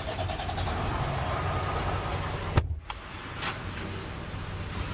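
Semi truck's engine running steadily, heard as a low hum, with a sharp click about halfway through.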